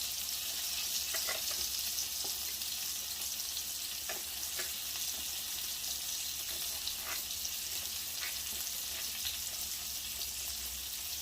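Fresh garlic sizzling in hot olive oil in a frying pan, a steady hiss with a few faint ticks.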